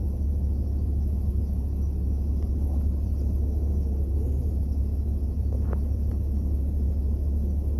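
Steady low rumble, with two faint short clicks a little before six seconds in.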